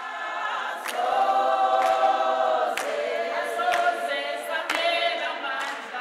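Choir singing sustained notes in harmony, with a sharp percussive beat about once a second.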